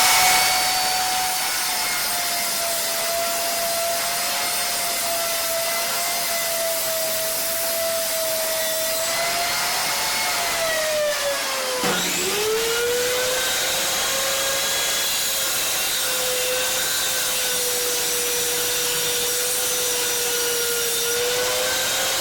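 Contractor table saw running and cutting MDF, with a steady motor-and-blade whine. About halfway through the whine sags and dips sharply, then holds at a lower pitch as the blade works under load.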